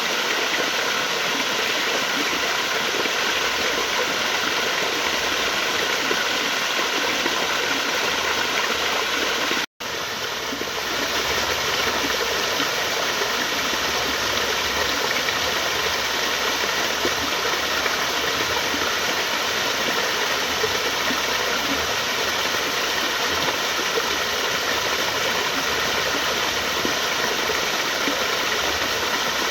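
Steady rush of flowing water, an even noise with no rhythm. It cuts out for a split second a little under ten seconds in, then resumes.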